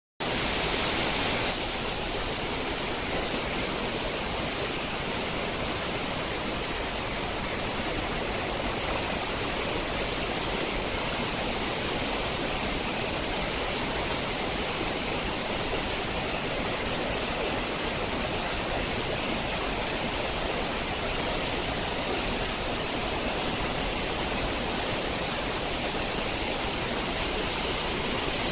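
Water of a clear mountain gorge stream rushing steadily over rocks and falls, a loud, even rush that cuts in just after the start.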